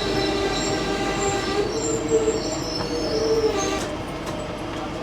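Passenger train's wheels and brakes squealing as it slows into a station: several steady high tones over the rumble of the coach, stopping a little under four seconds in.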